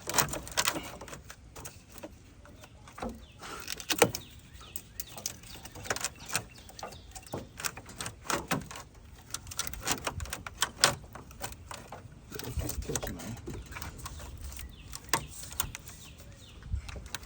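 Irregular clicks and knocks of hand tools and metal parts being handled, with sharper knocks about 4 and 11 seconds in.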